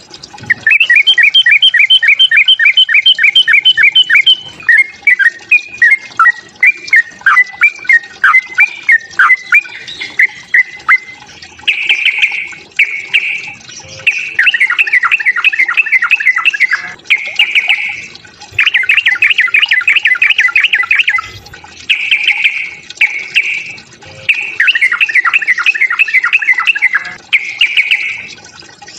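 Yellow-vented bulbul (trucukan) giving its agitated fighting call: loud, rapid runs of chattering notes broken by short pauses, with a looser phrase of separate falling notes a few seconds in.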